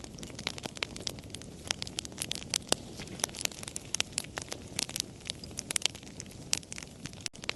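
Campfire crackling: a dense, irregular run of sharp pops and snaps over the soft low rush of the flames, with a momentary dropout near the end.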